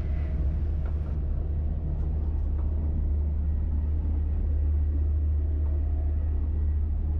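Steady low rumble of a Class 802 bi-mode train running at speed, heard from inside the train.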